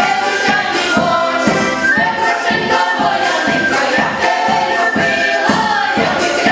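A choir singing a song over a backing track with a steady beat, about two beats a second.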